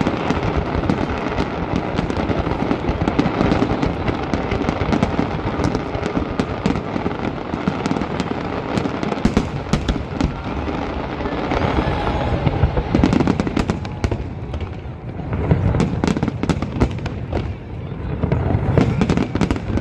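Fireworks display in a dense barrage of bangs and crackles, one on top of another, with heavier deep booms in the last few seconds.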